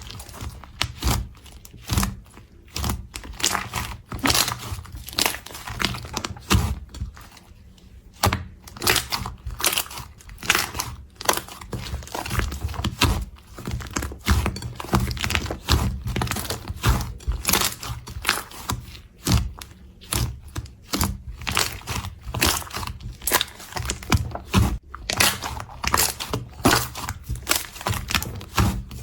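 Slime being squeezed, pressed and pulled by hand, giving dense irregular crackling and popping with soft thuds, several snaps a second.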